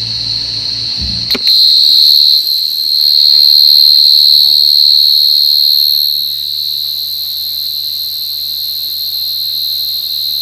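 A cricket singing a steady, high, continuous trill. It gets much louder after a click about a second and a half in, then eases back a little after about six seconds.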